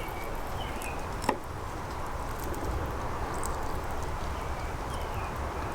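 Grohmann #2 Trout & Bird Knife blade cutting a V into a trout fillet to take out the line of intramuscular bones, with one sharp tap about a second in. Faint chirps and a low rumble in the background.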